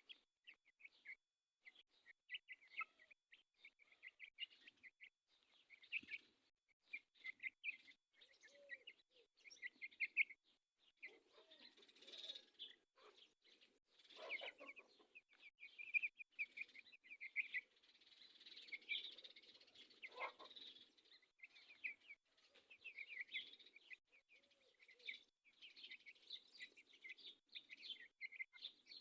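Faint, continuous chirping of many small birds, with occasional lower, softer calls mixed in.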